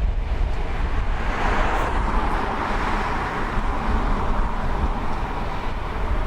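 Steam-hauled train running past, a steady heavy rumble of wheels on the rails with a rushing noise that swells about a second and a half in.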